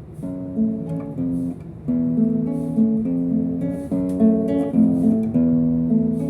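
Acoustic guitar playing an instrumental introduction: a run of plucked notes over strummed chords, with no singing.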